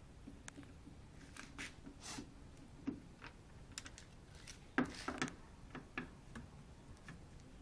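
Scattered light clicks and taps of hands working on a washing machine's plastic control panel and module, with a louder cluster of clicks about five seconds in.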